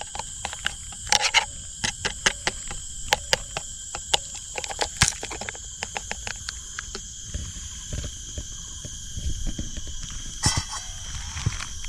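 Many irregular sharp clicks and taps of camp-breakfast handling, over a steady high drone of cicadas.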